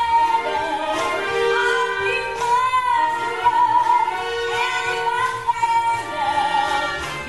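Female musical-theatre singer holding long notes with vibrato, over instrumental accompaniment in a live concert performance of a show tune.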